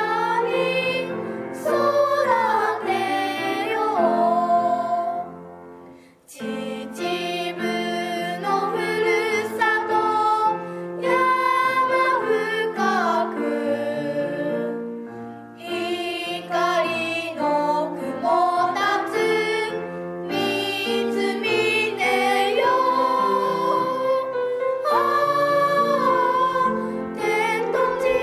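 Music: high voices singing a slow melody over sustained accompaniment chords, with a brief pause about six seconds in.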